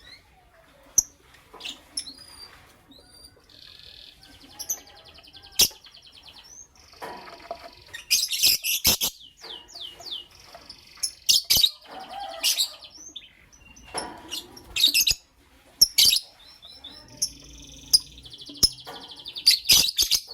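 Lovebirds chirping: shrill, sharp chirps and rapid chattering runs, with several loud clusters of calls spread through the stretch.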